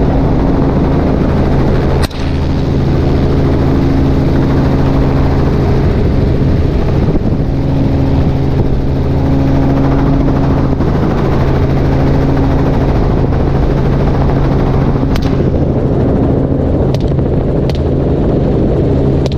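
Helicopter's engine and rotor running steadily in flight, heard loud from on board, with a few faint sharp cracks near the end.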